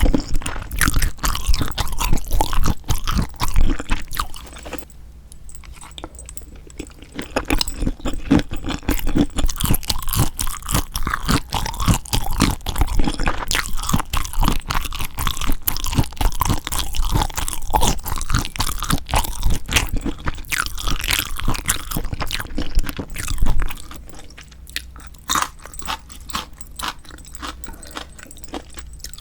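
A person chewing and biting into spicy marinated raw shrimp (yangnyeom saeu-jang), heard as close-up ASMR eating sounds with dense wet clicks and crunches. The eating eases off about four seconds in, picks up again a few seconds later and grows quieter near the end.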